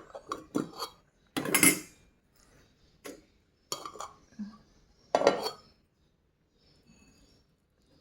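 Cutlery and dishes clattering in a run of clinks and knocks, the loudest about one and a half seconds and about five seconds in.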